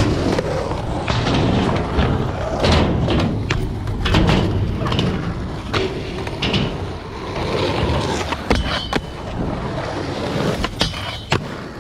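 Skateboard wheels rolling over concrete with a steady rumble, broken by several sharp clacks of the board.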